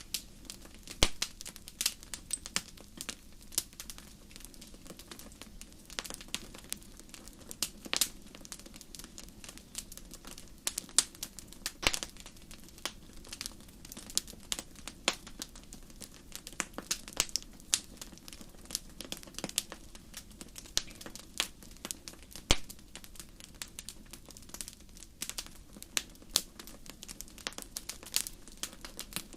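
Wood fire crackling in a fireplace: a steady stream of irregular sharp pops and snaps over a low hiss.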